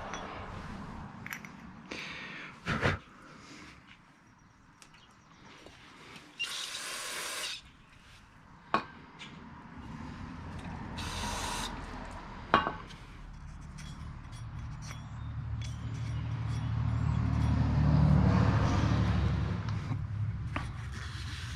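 Small parts and tools being handled on a workbench: scattered clicks and two short hissing bursts. Then a low rumble swells and fades over the last several seconds.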